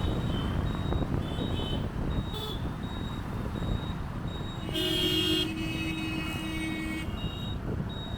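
Motorcycle riding in city traffic: steady engine and road noise, with a vehicle horn honking about five seconds in, loudest at first and held for about two seconds. A faint high beep repeats about twice a second.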